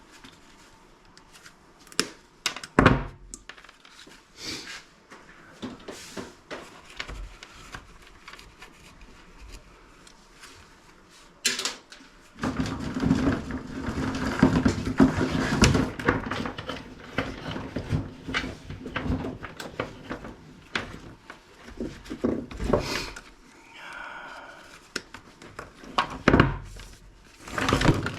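Scrap items being handled and taken apart by hand: scattered clicks, knocks and thunks of plastic and metal parts, with a louder, denser stretch of clatter and a steady low hum from about twelve to nineteen seconds in.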